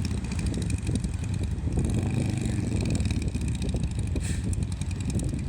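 Semi truck's diesel engine running steadily under heavy throttle as the truck, stuck in soft sand, tries to back out; an onlooker puts the failed attempt down to the driver being in the wrong gear, "like in fifth gear".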